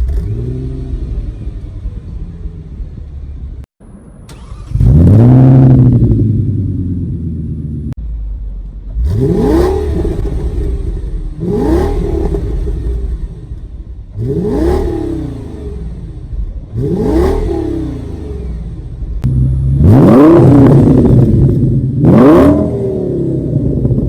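2008 Audi S6's 5.2-litre V10 idling and free-revved in a series of about seven short blips. Each one rises quickly and falls back to idle, with a longer rev near the end.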